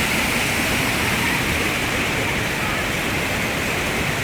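Flash-flood runoff pouring down a small waterfall after a heavy downpour: a steady, even rush of water.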